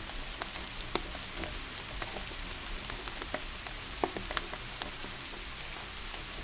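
Steady rain hiss mixed with a wood fire crackling, with irregular sharp pops about once or twice a second.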